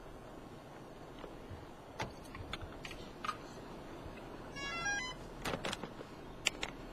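Scattered clicks and taps of handling gear, and about two-thirds of the way in a short, quick run of electronic beeps: a camera drone powering up.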